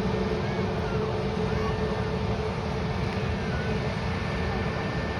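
Jet airliner engines running: a steady rush of noise with a faint held whine through it.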